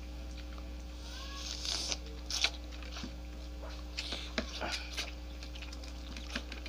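Close-up eating sounds: crunching and chewing of crispy fried chicken and roast chicken, with irregular crackles and wet mouth clicks, busiest in the first couple of seconds.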